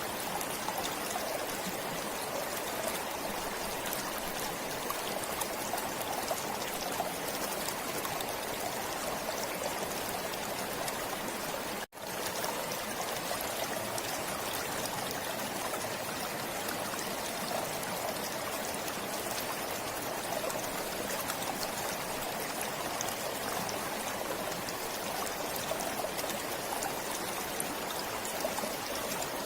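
Forest stream flowing steadily, a continuous rush and trickle of water. The sound cuts out for an instant about twelve seconds in, then resumes unchanged.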